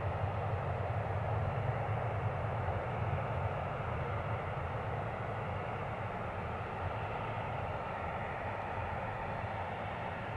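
Jet aircraft engines making a steady rumble that slowly fades.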